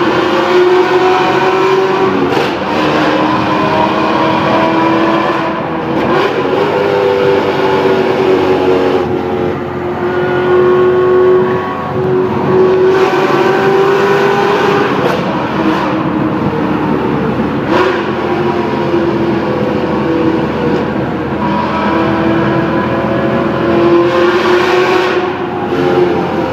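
Maserati Cambiocorsa V8 running through a Kreissieg aftermarket exhaust, its note climbing and falling several times, with short breaks between climbs.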